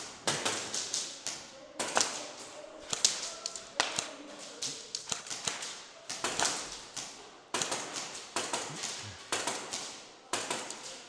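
Airsoft guns firing in a close-quarters game: many sharp cracks in irregular clusters, a few a second, each with a short echo off the surrounding walls.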